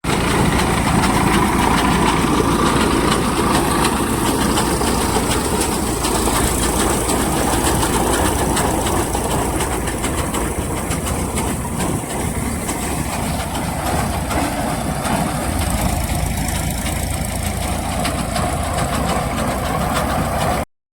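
Tractor engine running steadily with mechanical clatter, loud and constant, cutting off suddenly near the end.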